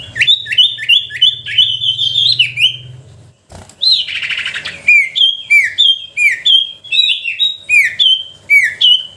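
Common iora (cipoh) singing. A fast run of clear whistled notes slurring downward, then a short break and one harsh buzzy note about four seconds in, then a steady series of two-part whistles, each dropping in pitch, about two a second.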